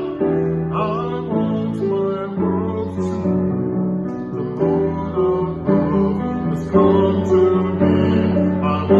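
A song played on strummed acoustic guitar, with a singing voice.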